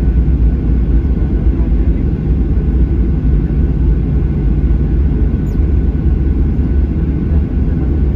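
Steady low rumble inside the cabin of a Boeing 737-800 taxiing, its CFM56-7B engines running at taxi power.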